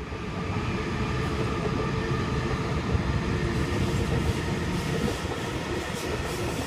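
Sydney suburban electric trains running through a station without stopping: a steady rumble of wheels on rail with a held motor whine, and sharp clicks as the wheels cross rail joints in the second half.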